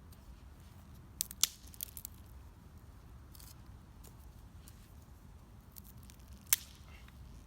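Wood fire crackling, with a few sharp pops, the loudest about a second and a half in and near the end.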